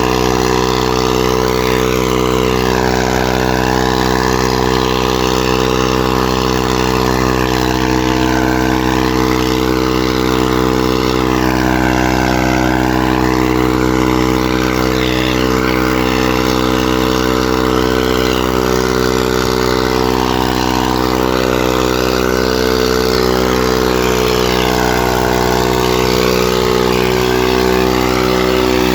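Farmtrac 45 tractor's diesel engine running steadily at an unchanging engine speed.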